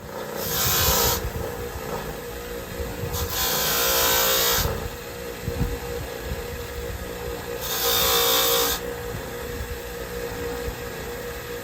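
A machine motor running steadily, with three louder rasping bursts of about a second or so each.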